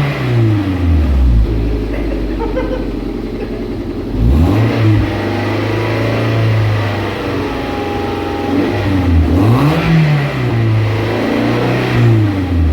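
Toyota MR2 race car's four-cylinder engine idling, with its throttle blipped into short revs about three times, each rising and falling back to a steady idle.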